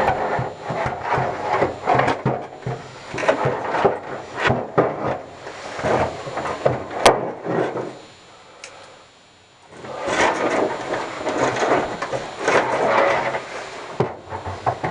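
Irregular scraping and rubbing with sharp clicks and knocks, pausing for about a second and a half some eight seconds in, then resuming.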